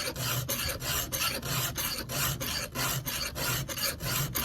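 Round file rasping across a chainsaw chain's cutter teeth by hand in a steady run of quick, even strokes. The file is grinding back cutter corners that are badly dinged from hitting gravel.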